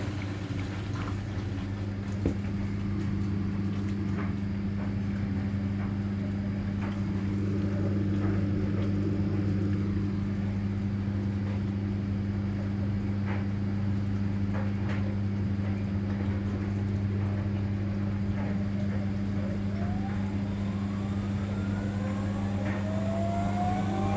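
Hoover H-Wash 500 washing machine running a service-mode test, giving a steady low hum with occasional light ticks. Near the end, a rising whine sets in as the drum motor speeds up.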